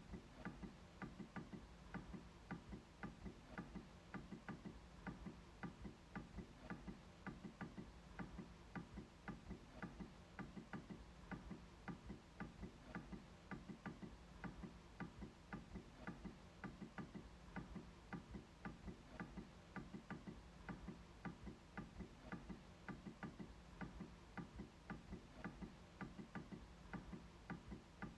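MacBook trackpad being clicked over and over, quiet, short clicks in a steady run of a few per second.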